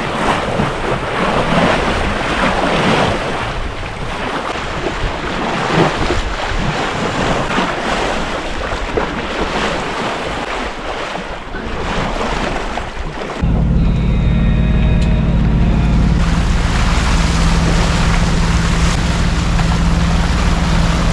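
Wind and rushing sea water with wind buffeting the microphone. About 13 seconds in this cuts abruptly to a steady, louder low drone of a boat engine running.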